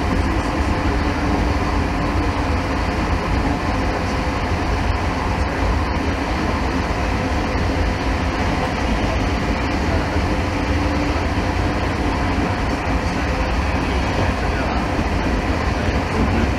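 Train running at speed along the track, heard from on board: a steady rolling rumble.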